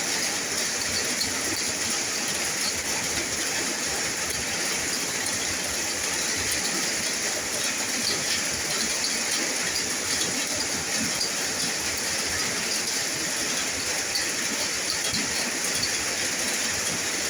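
Steady rain falling: an even hiss with small scattered ticks of drops.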